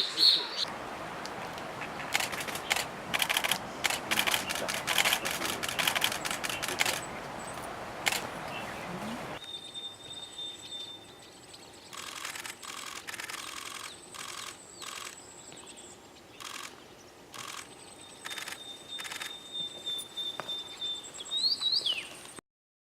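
Single-lens reflex camera shutter firing in rapid bursts of continuous shooting. After a cut about nine seconds in, the shutter bursts go on under a thin, steady high whistle.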